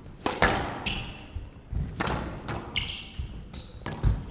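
Squash rally on a glass court: the ball is struck by the rackets and smacks into the walls about three times, sharp hits a second or more apart, and the players' shoes squeak on the court floor in short high chirps between them.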